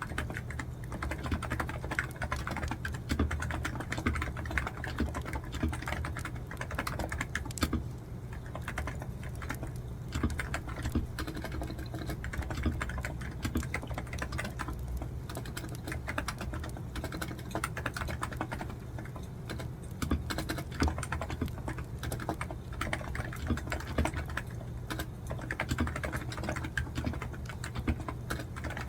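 Continuous fast typing on a computer keyboard, dense clicks with a short lull about eight seconds in, over a steady low hum.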